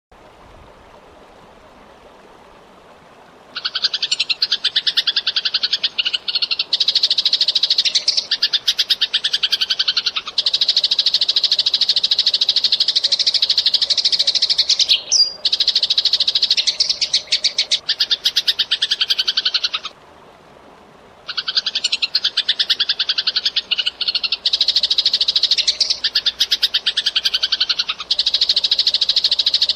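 Eurasian tree sparrows chattering in a fast, dense stream of rapid chirps. It starts about three and a half seconds in and breaks off briefly about two-thirds of the way through.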